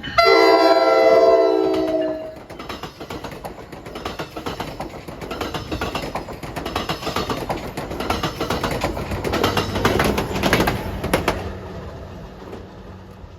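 A five-chime K5LLA air horn on an NJ Transit locomotive sounds one chord blast about two seconds long. The train then passes, its wheels clattering over the rail joints, before the noise fades away.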